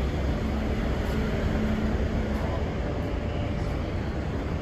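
Steady low rumble of vehicle traffic, with a faint hum that stops about halfway through.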